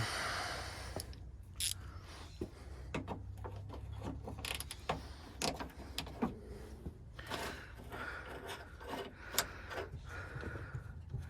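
Hand work inside a GMC truck door during a door latch replacement: scattered clicks, knocks and scrapes of tools and parts being handled against the door's inner parts, irregular and with no steady rhythm.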